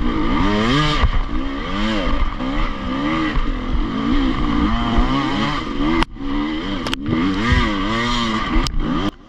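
Enduro motorcycle engine revving up and down over and over while riding off-road, with the throttle opening and closing about once a second. The engine note drops out briefly about six seconds in and falls away sharply near the end.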